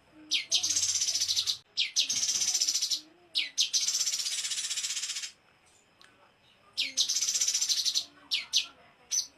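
A small songbird singing rapid-fire 'tembakan' phrases: one or two sharp chips, then a fast, high, buzzy trill about a second long. The phrase comes four times, with a pause of about a second and a half after the third, and more chips near the end.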